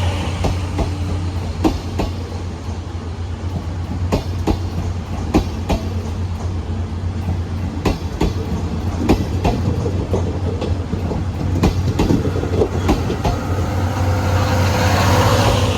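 Train on the rails: irregular clicks and clacks of wheels and metal over a steady low rumble.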